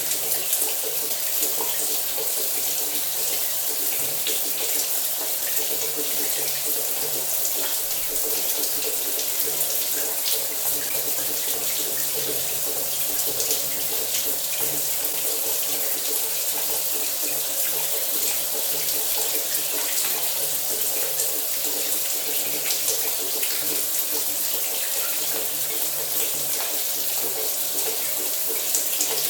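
Running shower water, a steady even spray with no change or pause.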